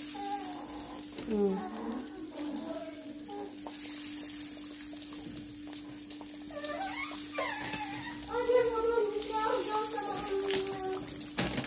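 Battered chicken pieces sizzling as they fry in hot oil in a wok, a steady hiss over a low hum. Voices rise in the background over the second half.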